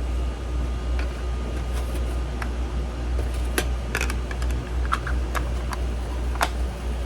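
Steady low hum with about eight light clicks and taps scattered through it, from parts being handled during a refrigerator control-board swap.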